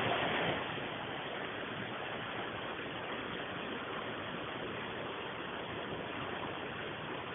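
Steady, even rushing noise with no distinct events, a little louder in the first half second.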